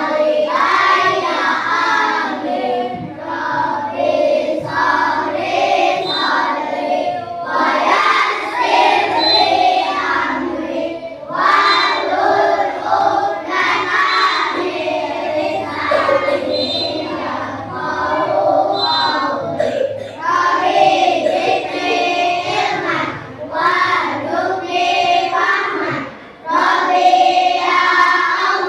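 A class of young schoolchildren chanting together in unison, in sing-song phrases of a few seconds each: a group prayer recited before the lesson.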